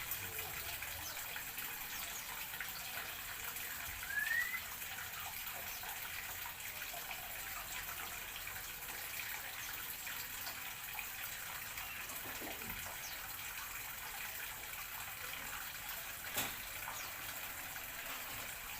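A steady hiss like running water. About four seconds in there is one short rising whistle, and near the end a single sharp click.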